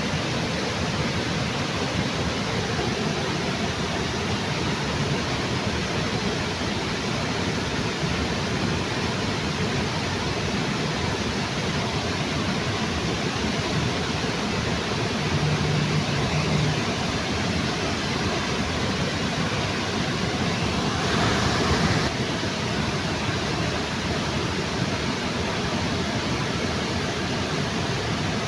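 Waterfall under a bridge: a steady, even rush of falling water. It swells briefly and brightens about three-quarters of the way through.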